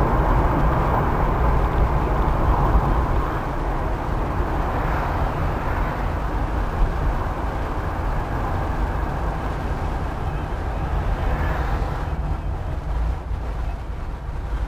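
A 1994 Fiat Elba's engine idling while stopped at a traffic light, heard from inside the cabin as a steady low rumble.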